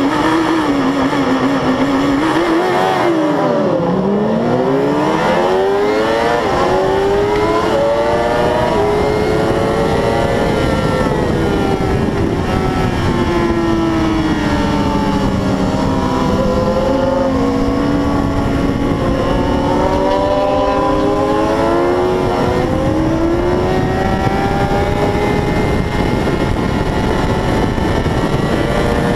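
600 cc racing motorcycle engine at high revs on a race track. Its pitch drops sharply about three seconds in under braking and downshifts, then climbs in steps through quick upshifts, falls again midway into the next corner and rises once more. A steady rush of wind and noise runs underneath.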